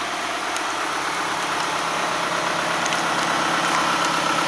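GMC W4500 box truck engine idling steadily.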